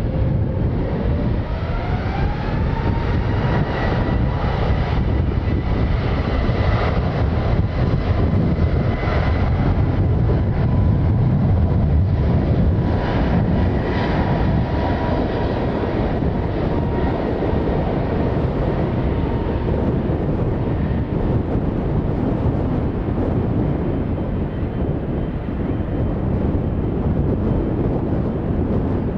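Airbus A321neo's Pratt & Whitney geared turbofan engines spooling up to takeoff thrust and running through the takeoff roll. A whine rises over the first few seconds, then holds steady over a loud low rumble, and fades after about twenty seconds.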